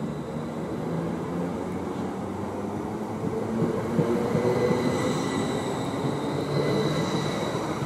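Electric passenger train passing close through a station at speed, its wheels rumbling on the rails. A thin high whine grows stronger about five seconds in.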